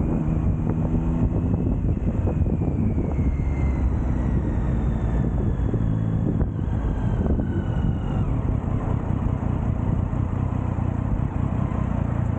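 Triumph Street Triple inline three-cylinder motorcycle engine running on the road, heard from a bike-mounted camera with wind rushing over the microphone. The engine's pitch slides slowly down over the first several seconds as the bike eases off.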